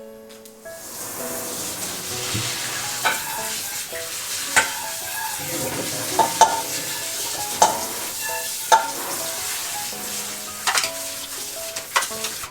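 Spinach blanching in a pot of boiling water: a steady bubbling hiss with several sharp clicks scattered through it, over light background music.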